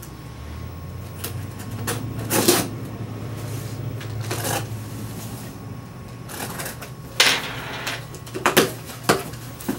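Cardboard product box being opened and its packaging handled: a series of scrapes, rustles and sharp knocks over a low steady hum.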